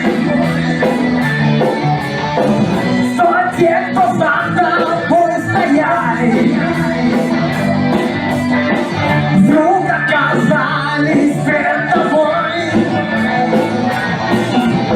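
Rock band music with a singing voice and guitar, a steady beat ticking throughout.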